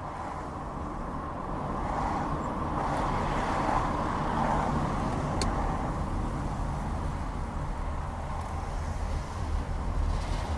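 Steady engine and road noise of a car being driven, as picked up by a dash camera inside the cabin: a low rumble with tyre hiss and a single sharp tick about five seconds in.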